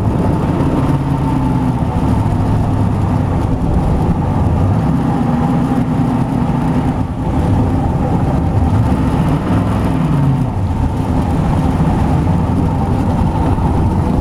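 The 350 V8 engine of a homemade jet boat running steadily under way, with a slight dip and change in the engine note about halfway through.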